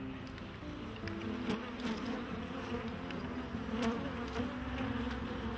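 Honey bees buzzing in a crowd around an open hive and a lifted brood frame, a steady dense hum of many slightly wavering pitches, with a few faint clicks.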